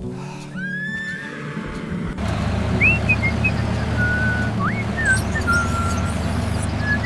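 A steady low engine drone, like a tractor running, starts about two seconds in. Short bird-like chirps and whistles sound over it, with a few falling whistles just before the drone begins.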